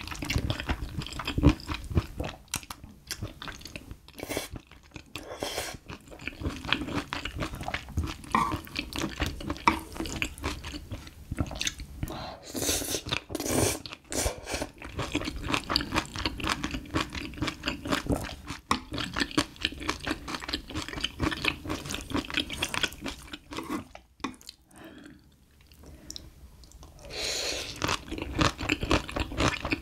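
Close-miked mukbang eating: wet chewing and crunching of spicy stir-fried small octopus, wheat noodles and crisp bean sprouts, in quick irregular bites, with a noodle slurp near the end. The chewing drops away for a couple of seconds about three-quarters of the way through.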